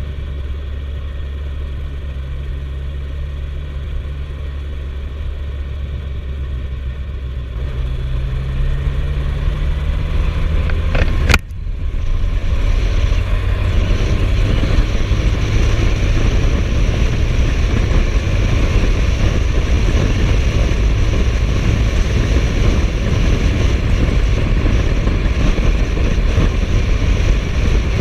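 Suzuki GSF1250S Bandit's inline-four engine running on the move, its pitch rising as it accelerates. A sharp click comes about eleven seconds in, after which wind and engine noise run louder and steady.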